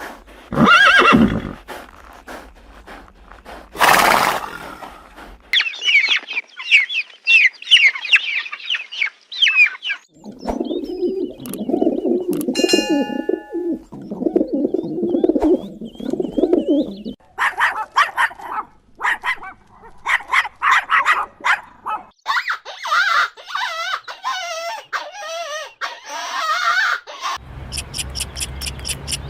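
A string of different animal calls, one after another: two short loud calls, then high chirping, then a stretch of lower repeated calls, then sharp chirps and fast chattering near the end.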